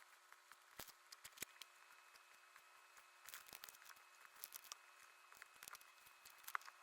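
Faint paper-crafting sounds of collage work: scattered light clicks, taps and paper rustles.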